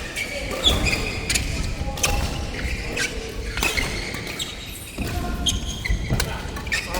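Indoor court play: sharp hits at irregular intervals and squeaking shoes on the floor, echoing in a large hall.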